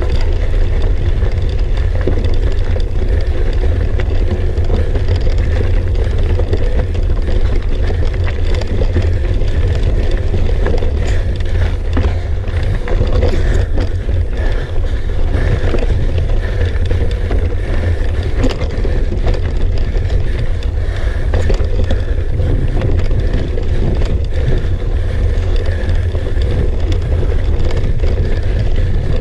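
Mountain bike ridden up a rough technical trail: wind buffets the on-bike microphone in a constant low rumble, over which the bike and its tyres give scattered clicks and knocks on the rocky ground.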